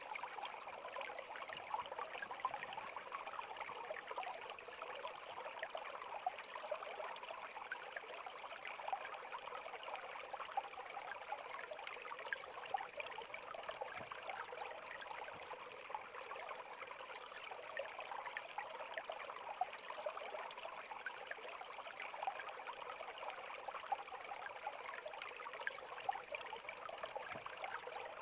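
River water flowing steadily, a dense, even rush of small splashes and trickles.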